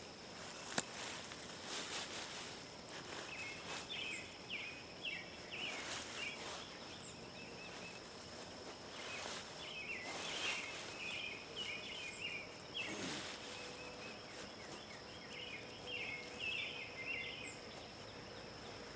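Outdoor garden ambience: birds chirping and twittering in short bouts, one call a quick high downward chirp repeated about four times, over a steady high-pitched whine. Intermittent rustling and scraping as a potato plant is pulled up and dug out.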